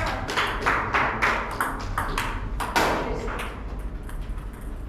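Table tennis ball clicking off bats and table in a rally, sharp ticks coming a few times a second and thinning out near the end.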